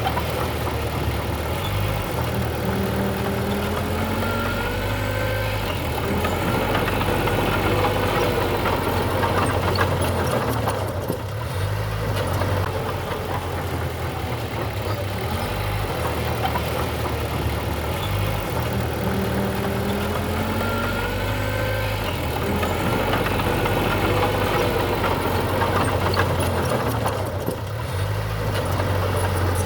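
Diesel engine of heavy earthmoving machinery running steadily, with short rises and falls in pitch.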